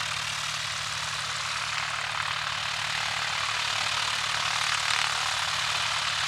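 Light propeller airplane's engine running at low power, a steady, evenly pulsing drone that grows slightly louder.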